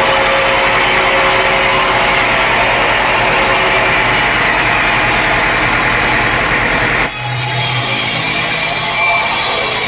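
Sawmill saw cutting through a teak log, a loud steady grinding noise with a faint steady whine; about seven seconds in the sound changes abruptly and carries on.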